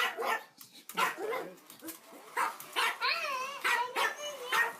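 A dog barking in short, loud yips, then a long, wavering whining cry from about three seconds in.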